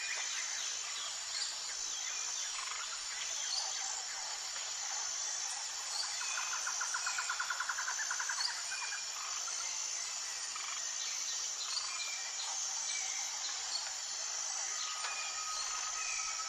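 Dawn chorus of songbirds chirping over a steady high-pitched buzz, with one bird giving a fast trill of about ten notes a second in the middle and a long held whistle near the end.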